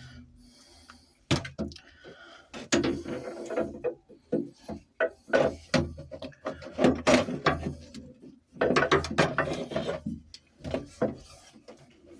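Metal hand tools clicking, knocking and clanking irregularly against the engine and its mounts during engine alignment work. The sounds come in quick clusters from about a second in until shortly before the end.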